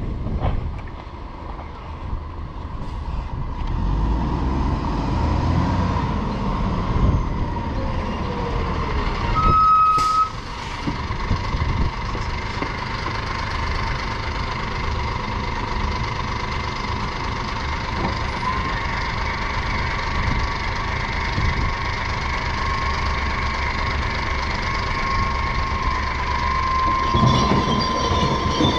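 Glass-collection truck's engine running steadily under a constant high whine, with a short beep and a sharp sound about ten seconds in.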